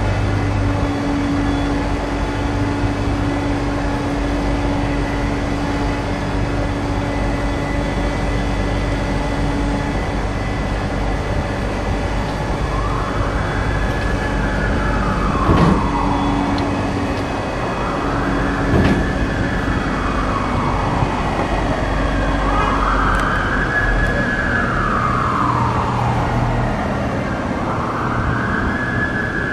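Steady background rumble. About halfway through, an emergency vehicle siren starts wailing, slowly rising and falling about every three and a half seconds, with two sharp knocks a few seconds apart.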